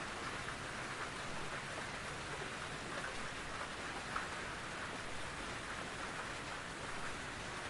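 Steady rain falling in a forest, an even patter of many drops with a single slightly louder drop about four seconds in.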